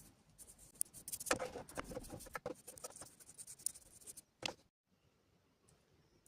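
Light clicking, scraping and rattling of small hard objects being handled, which cuts off suddenly about four and a half seconds in and leaves faint room tone.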